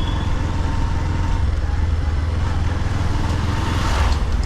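Motorcycle running on the move, a steady low engine drone under rushing road and wind noise, with a brief swell of rushing noise near the end.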